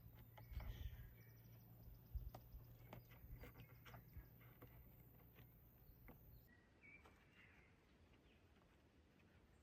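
Faint outdoor ambience: scattered light knocks and rustles with birds chirping now and then. About two-thirds of the way through the knocks and low hum stop suddenly, leaving only quiet birdsong.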